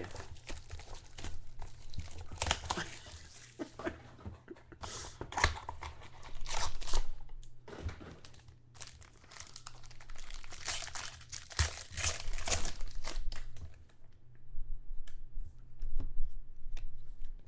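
Trading card pack wrapping being torn open and crinkled, in a run of noisy tearing and rustling bursts. Near the end it thins out to a few light clicks and taps.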